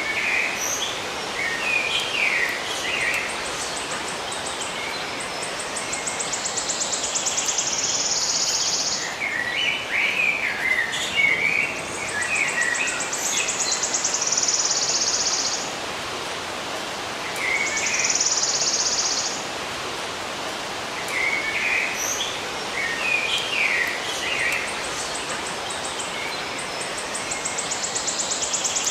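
Birds chirping in short bursts over a steady background hiss. A high, buzzing trill recurs several times, starting as fast pulses and then holding steady for a second or two.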